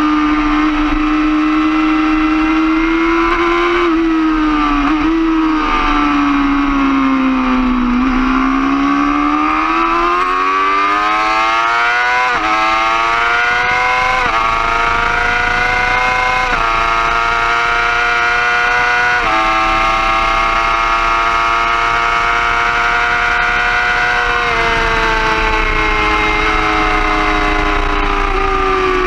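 2011 Yamaha R6's 600 cc inline-four engine at high revs on track: the pitch sags briefly, then climbs hard through four quick upshifts, each a rising whine cut off by a sudden drop, holds steady and eases off near the end.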